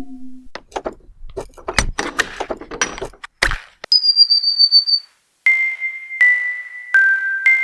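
Chopped-up found-sound samples arranged as music: a quick run of assorted clicks and knocks, then a single high whistle-like tone for about a second, then three short pure tones stepping down in pitch.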